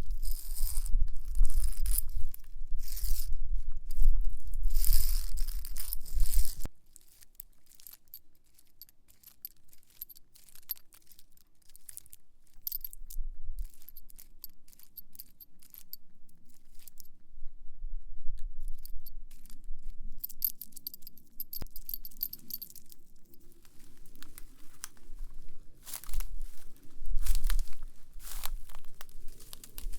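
A nail worn on a fingertip scratching along a wall with loud, rough strokes. After about seven seconds this stops abruptly, and quieter crackly scratching and crinkling follow as the nail works over a spiny leaf.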